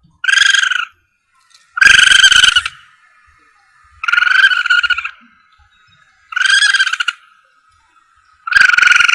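A civet lure call repeating: five high, pitched calls, each half a second to a second long, about two seconds apart. It is played to draw civets in at night.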